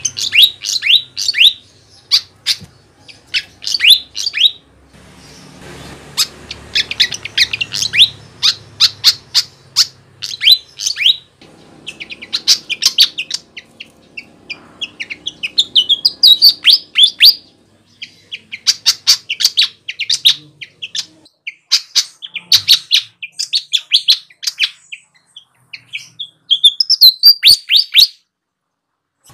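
Sikatan (flycatcher) singing constantly: phrase after phrase of rapid, high-pitched chirps and trills, separated by short pauses.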